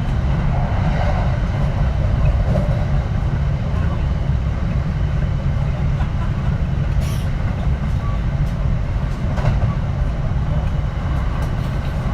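Kintetsu 3220-series electric train running, heard from inside the passenger car: a steady rumble of wheels on rail, with two brief sharp clicks about seven and nine and a half seconds in.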